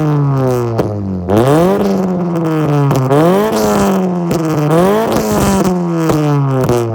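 B20 four-cylinder Integra's exhaust note as the engine is revved repeatedly, its pitch climbing and falling off four or five times.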